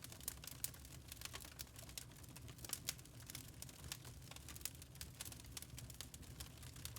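Wood fire in a fireplace crackling: irregular sharp pops and snaps of burning logs, several a second, over a low steady rumble of the flames.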